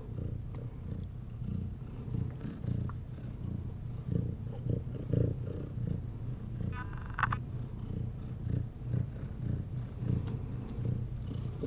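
Domestic cat purring steadily with a low, pulsing rumble.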